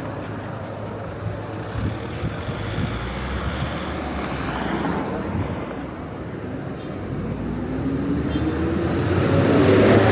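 Street traffic, with a motor vehicle drawing near: its engine rises in pitch and the sound grows louder over the last few seconds.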